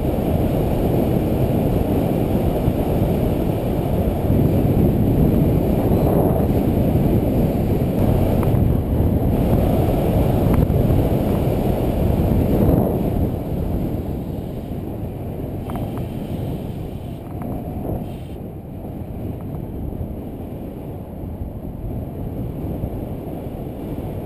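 Wind buffeting a GoPro microphone on a road bike descending at speed: a loud, low rushing rumble that eases about halfway through as the bike slows.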